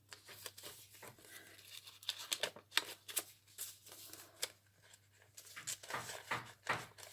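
Paper rustling: a handmade paper journal's pages, pocket and cards being handled and turned, in a string of short, faint scratchy rustles and light clicks.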